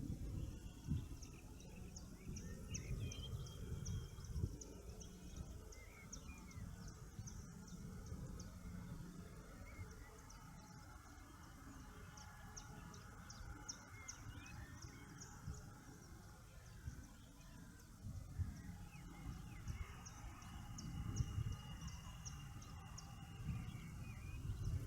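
Songbirds singing in the morning. One bird repeats short, very high notes about three a second, in runs, and other birds sing lower. A steady low rumble runs underneath.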